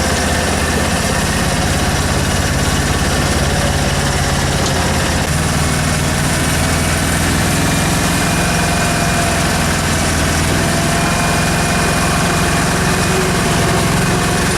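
Engine of an amphibious vehicle running steadily under way at low speed, its pitch shifting slightly about five seconds in.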